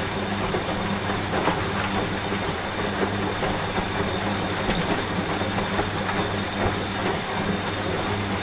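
Steady rain mixed with a washing machine running: an even hiss of rain with scattered drop ticks over a constant low machine hum.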